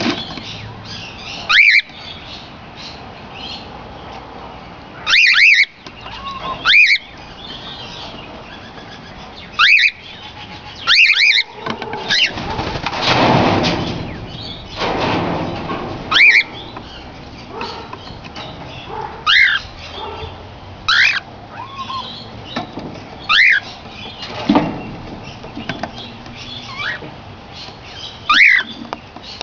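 Cockatiels giving about a dozen short, sharp whistled calls, one every second or few, with a stretch of wing flapping about halfway through.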